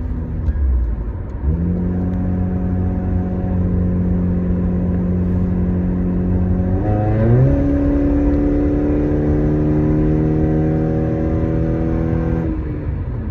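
Acura TSX engine and open exhaust (header, cat delete and muffler delete, resonator retained) pulling hard under throttle, heard from inside the cabin. The note steps up about a second and a half in, holds, climbs sharply about seven seconds in and keeps rising slowly, then falls away near the end as the throttle is lifted.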